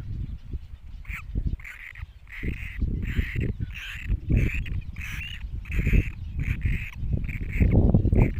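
Great cormorant chicks calling over and over, short calls about twice a second starting about a second in, over a heavy low rumble.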